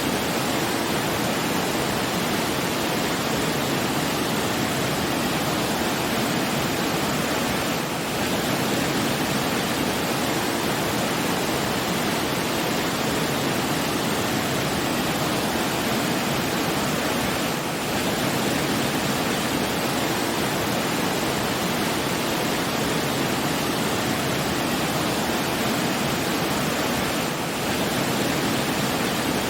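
A steady, even rushing noise, the kind of water or pink-noise bed used as a sleep soundscape, with a brief dip about every ten seconds.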